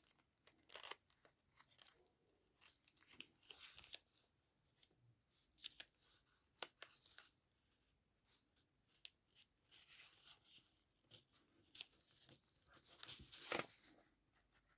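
Quiet, scattered rustling and crinkling of paper with small clicks, as holes are poked through a book page by hand. A longer run of rustling comes near the end.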